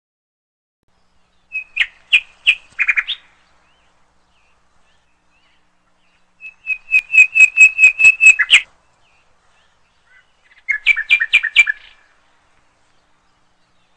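Songbird singing in three short phrases of rapid, repeated high chirps. The first comes about two seconds in, the longest and loudest at about five notes a second from around six to eight and a half seconds, and a last short phrase near eleven seconds.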